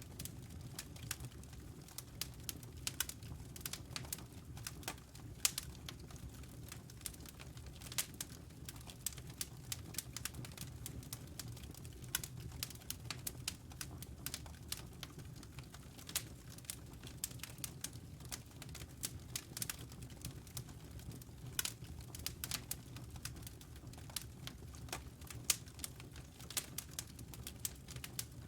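Wood fire crackling in a fireplace: irregular sharp pops and snaps several times a second over a steady low rumble.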